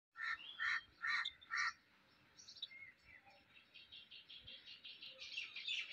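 Birds calling: four short loud calls in quick succession, then from about two seconds in, rapid high chirping and twittering of small birds that grows denser.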